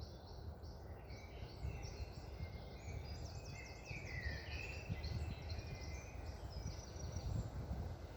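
Several songbirds chirping and trilling together over a steady low rush of wind.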